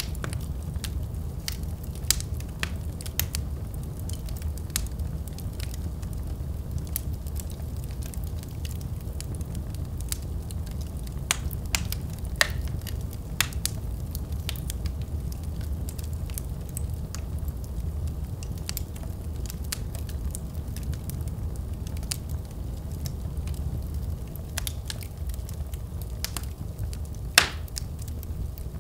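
Wood fire burning in a fireplace: a steady low rumble of flame with irregular sharp crackles and pops, the loudest pop coming near the end.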